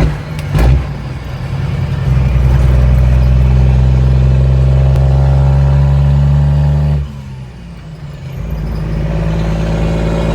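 Cummins N14 inline-six diesel with a straight-piped exhaust: a deep, steady drone under throttle that cuts off abruptly about seven seconds in, then comes back on and holds steady a second or so later. A brief loud burst of engine sound near the start.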